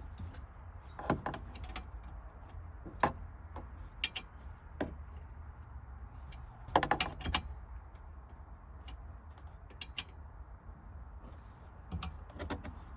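Irregular metallic clicks, clinks and knocks from tools and parts being handled during work inside a Jeep, with a cluster of clinks about seven seconds in, over a low steady rumble.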